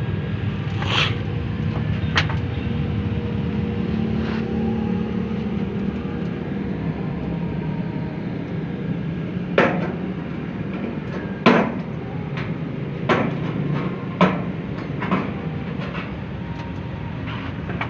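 Scattered sharp knocks and clacks from handling and fixing ductwork, over a steady low hum. The knocks are sparse at first, then come as a run of louder ones in the second half.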